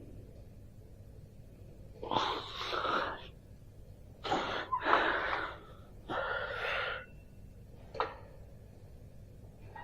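A person breathing hard: three long, forceful breaths a little over a second apart, then a short click near the end.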